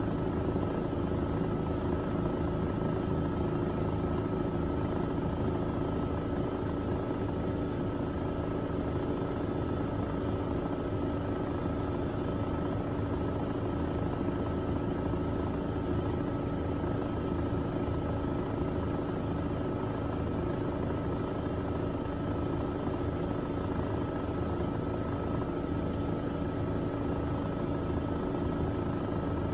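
Miele Navitronic W3985 WPS front-loading washing machine spinning its drum at a steady high speed, a constant motor hum over a low rumble.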